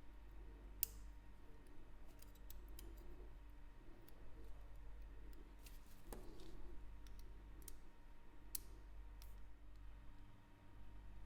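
Scattered light clicks and taps of small metal watchmaking tools and watch parts being handled at the bench, over a low steady hum.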